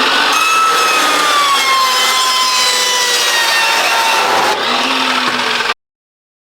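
Power tool cutting stainless steel exhaust pipe: a harsh grinding hiss with a high whine that slowly drops in pitch as it bites, then stops abruptly near the end.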